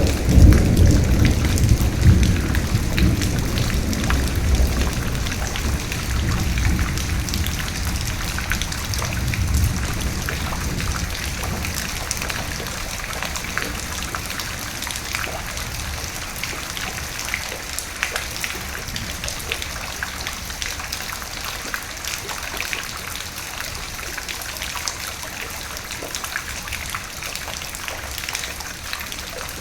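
Steady rain with many individual drops pattering on a surface, and a rolling thunder rumble that is loudest right at the start and dies away over about the first ten seconds.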